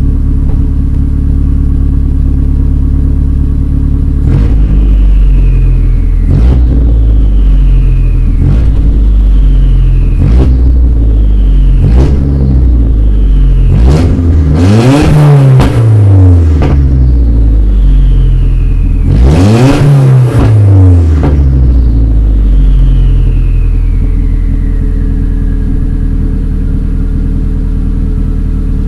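Car engine idling, then revved in quick throttle blips about every two seconds, with two longer, higher revs in the middle. A falling whine follows each blip as the revs drop, and near the end the engine settles back to a steady idle.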